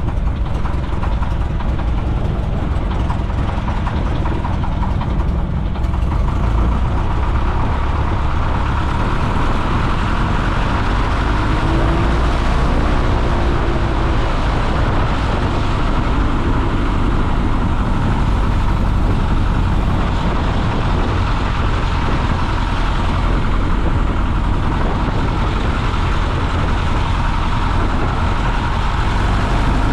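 A Piper J-3 Cub's engine and propeller running steadily, a loud, even drone heard from inside the open cockpit.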